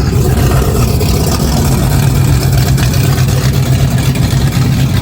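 Car engine running steadily at close range, a low, even drone with no revving.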